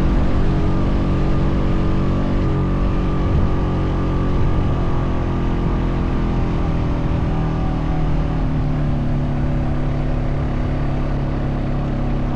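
Honda Foreman 520 ATV engine running steadily under load while towing another ATV, its pitch holding nearly constant.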